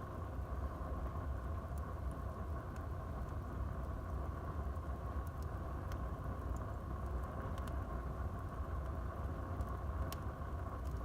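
Wood fire burning in a fireplace: a steady low rumble of the flames with a few scattered sharp crackles of the burning wood, the loudest pop about ten seconds in.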